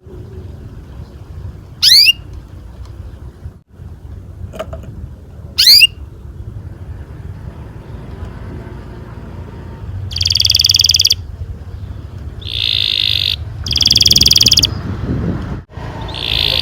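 Domestic canary calling and singing: two quick rising chirps a few seconds apart, then from about ten seconds in three bursts of rapid rolling trill, each about a second long. A low steady hum runs underneath.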